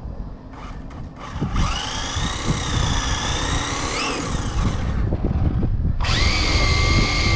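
Electric motors of RC drag cars whining at full throttle. One run's whine climbs, wavers and shoots up in pitch about four seconds in before fading out. A second, steady high whine starts suddenly about six seconds in.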